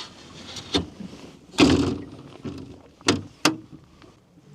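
Several thumps and knocks in a fishing boat: one knock, then a heavier thump with a rustle, then two sharp knocks in quick succession.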